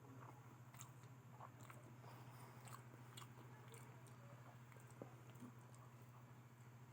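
Faint chewing and crunching of a person eating fried potato, a scatter of small wet clicks over a steady low hum.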